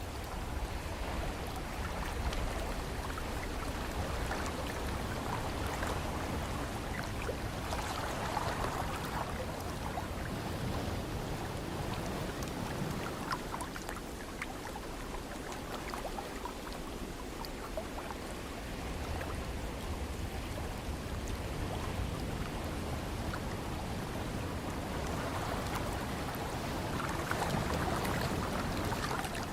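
Steady ocean surf with wind, swelling about 8 seconds in and again near the end.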